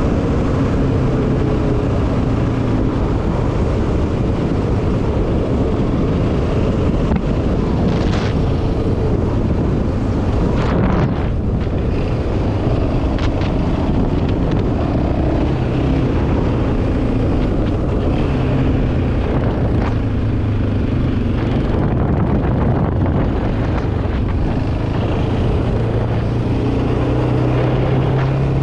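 Yamaha Raptor 700R quad's single-cylinder four-stroke engine running under way, its pitch rising and falling as the throttle changes, with wind buffeting the microphone.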